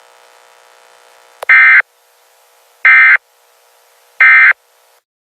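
Three loud, identical electronic beeps, evenly spaced about a second and a half apart, over a faint steady electronic hum.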